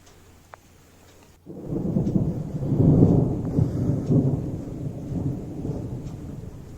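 Thunder: a low rumble breaks in suddenly about a second and a half in, swells, then rolls on and slowly fades.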